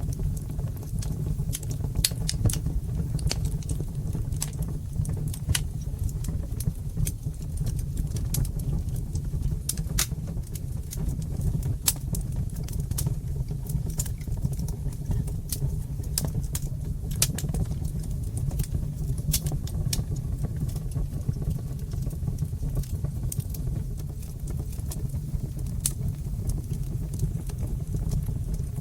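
Fire in a fireplace crackling, with sharp pops at irregular intervals over a steady low rumble.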